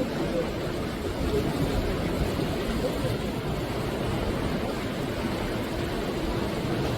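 Sea waves washing continuously onto the shore, a steady low rush of surf that swells slightly in the first couple of seconds.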